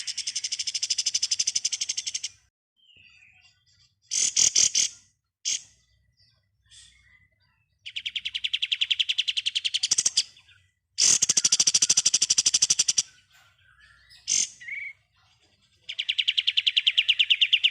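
Kapas tembak songbird singing its fast machine-gun trill, the 'ngebren' song. It gives a series of rapid, evenly pulsed trills of about two seconds each, with one short burst in between, separated by brief pauses.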